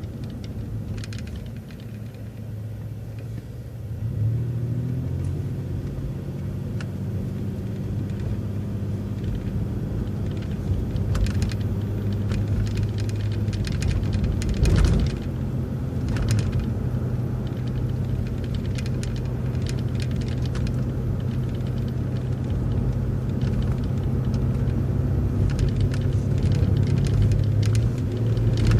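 City transit bus driving along a road: a steady low engine hum and road rumble that grows louder about four seconds in as the bus picks up speed, with scattered light rattles and a single louder thump midway.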